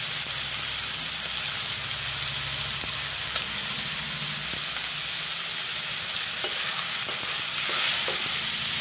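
Chicken pieces sizzling steadily in hot oil in a pan while being stirred with a spoon, with a few light clicks of the spoon against the pan.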